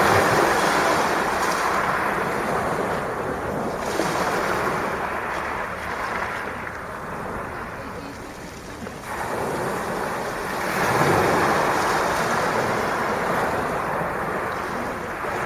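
Sea waves breaking and washing on the shore in slow surges: a loud wash at the start that dies away, then another wave building to a peak about eleven seconds in.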